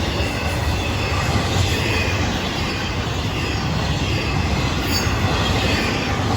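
Train cars rolling past, a steady rumble of wheels on rail with faint high wheel squeal.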